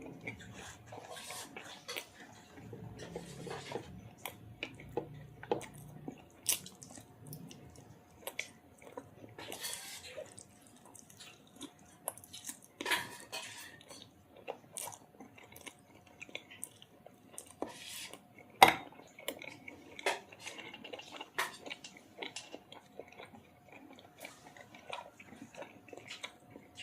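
Eating at a plate: irregular clinks and scrapes against the dish, with chewing in between. One sharp clink, about two-thirds of the way through, is louder than the rest.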